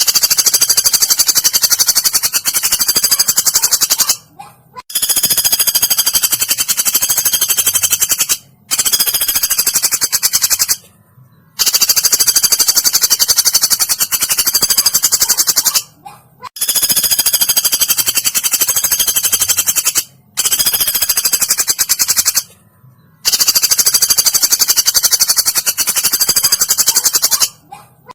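Woodpecker calls from a training recording: a fast, high-pitched rattle repeated in runs of about two to four seconds, about seven runs broken by short pauses.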